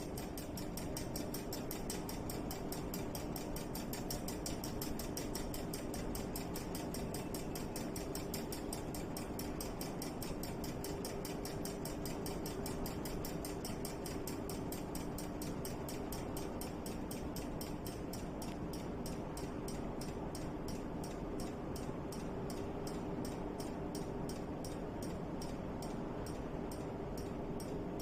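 Homemade wind-driven bird-scaring device turning, its mechanism clicking rapidly and evenly, several clicks a second, over a steady hum and a rushing noise.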